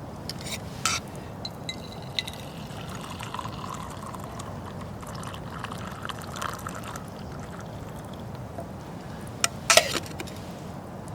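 Water being poured, with a few sharp knocks; the loudest knocks come near the end.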